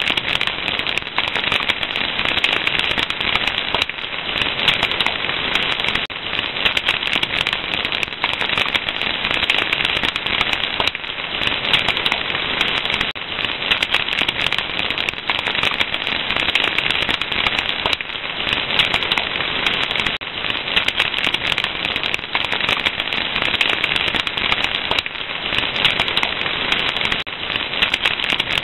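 Fire crackling steadily, a dense run of small pops and snaps over a continuous hiss.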